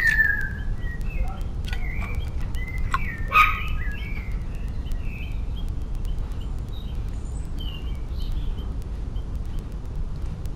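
Garden birds chirping: short calls, the loudest at the start and about three and a half seconds in, then softer twittering, over a steady low rumble.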